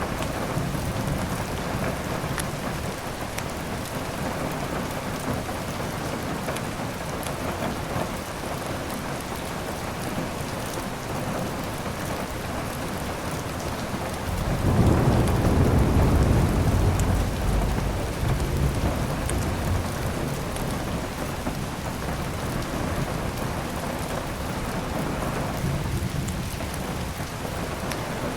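Steady heavy rain, with a low roll of thunder that swells about halfway through and fades over a few seconds.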